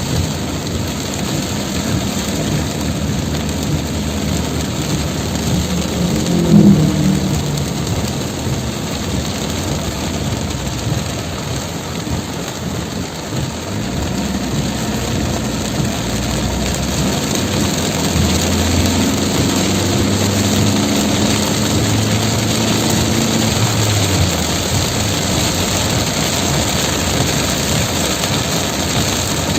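Heavy tropical rain falling in a steady hiss. A vehicle engine rises loudly about six seconds in, and another engine hums for several seconds in the second half.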